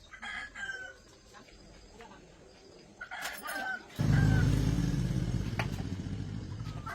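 Chickens clucking, then about four seconds in an old farm machine's engine starts abruptly and keeps running with a low rumble, slowly getting quieter.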